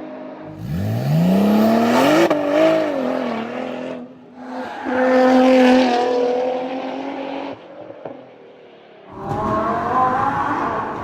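Car engines revving in a run of short clips that start and stop abruptly. About half a second in, an engine climbs quickly in pitch. A steadier high-revving stretch follows in the middle, and another burst of engine noise starts near the end.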